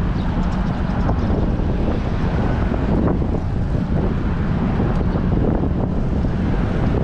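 Wind buffeting the microphone of an action camera on a moving bicycle: a steady low rumble with no break.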